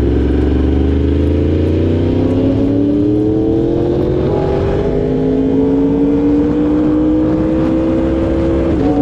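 Yamaha YZF-R1M's crossplane inline-four engine accelerating under way, its pitch climbing steadily. It shifts up about halfway through and again near the end, the pitch dropping at each shift and then climbing again.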